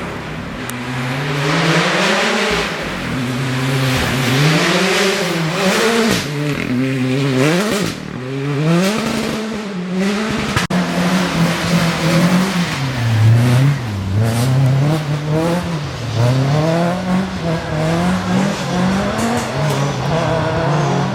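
Rally car engine revving hard, its pitch rising and falling over and over as it accelerates, changes gear and lifts.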